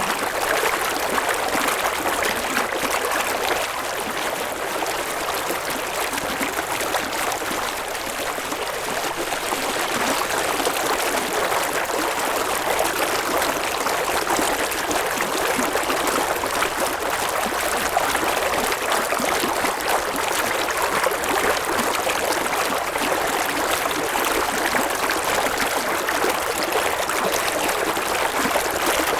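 River water flowing steadily: an even, continuous rushing sound, mostly in the middle and high range, with little deep rumble.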